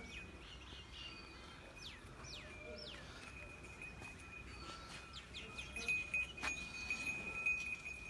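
Small birds chirping, with a few quick falling whistled notes about two to three seconds in, over a steady thin high-pitched tone; a couple of sharp clicks near the end.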